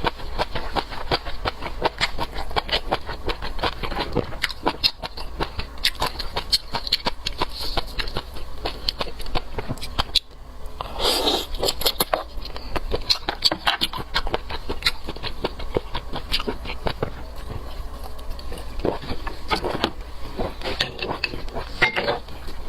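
Close-miked eating sounds: seafood being chewed, with continual wet mouth clicks and smacks, and a brief louder rustle or scrape about halfway through.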